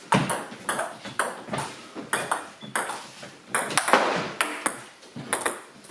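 Table tennis rally: the ball clicking sharply off bats and table in a quick, uneven run of about a dozen hits.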